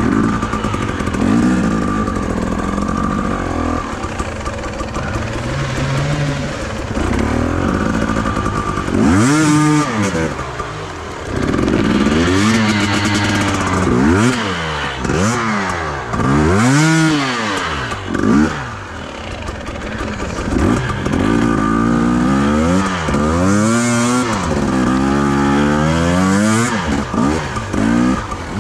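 Enduro motorcycle engine running, then revving up and down over and over from about a third of the way in, rising and falling in pitch every second or so.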